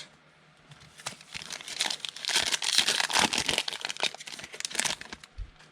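Foil wrapper of a trading-card pack crinkling as it is torn open and handled, a dense crackle of small clicks lasting about four seconds.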